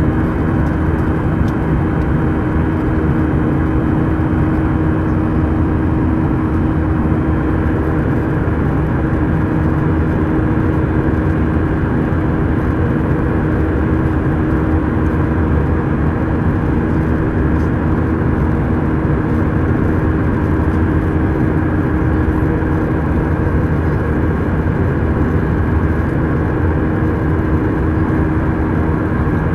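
Steady cabin noise of an Airbus A319 airliner in flight after takeoff: an even jet-engine and airflow roar with a steady hum under it, heard from a seat by the wing.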